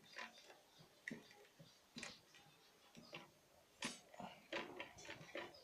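Fork tapping and scraping against a dish while mashing a hard-boiled egg together with its shell: faint, irregular clicks.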